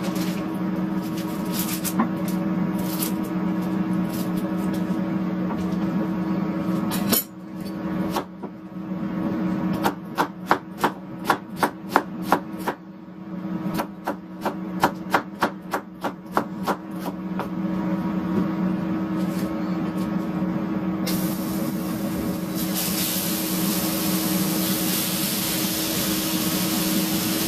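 Rhythmic knocking on a kitchen work surface during food preparation, about three strikes a second for some ten seconds, over a steady hum. A steady high hiss sets in near the end.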